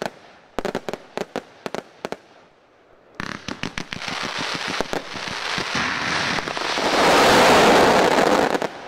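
Fireworks: a string of sharp bangs from bursting shells, a short lull, then a fast-firing salvo of launches and bursts that thickens into a dense, continuous barrage of bangs, loudest shortly before the end.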